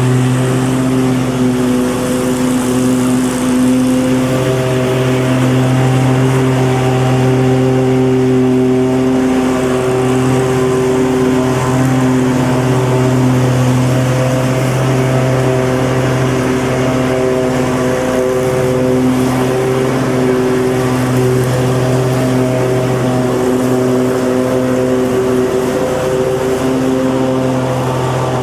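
Lawnmower engine running steadily at a constant speed, its pitch wavering slightly.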